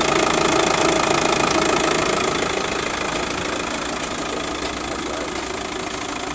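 Volkswagen Passat's BKP 2.0 TDI diesel engine idling steadily with a diesel clatter, getting a little quieter about two seconds in.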